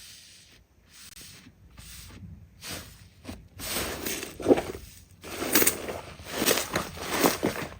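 Slime being squeezed and pressed by hand: a few soft, airy squishes, then from about halfway louder crackling and crunching squelches.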